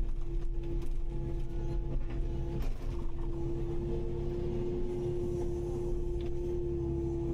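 Kubota KX080-5 excavator's diesel engine running steadily with a strong steady whine, which breaks off briefly about two and a half seconds in.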